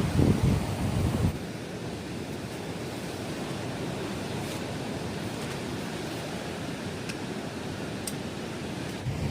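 Strong wind buffeting the microphone for about the first second, then cutting down suddenly to a steady rush of surf and wind on the beach. The gusts start buffeting again near the end.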